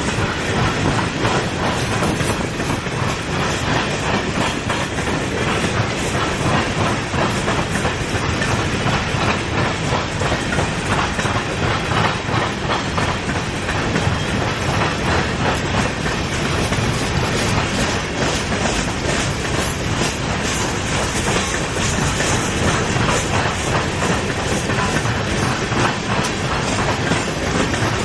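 Train of empty grain cars rolling steadily past, wheels clicking rapidly and continuously over rail joints with a constant rumble and rattle.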